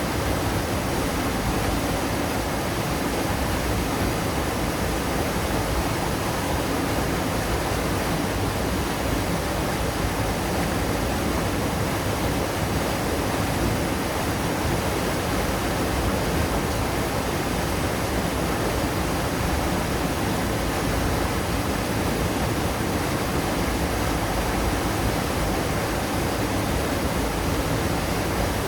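Waterfall pouring steadily: a continuous, even rush of falling water, fullest in the low and middle range, with no change throughout.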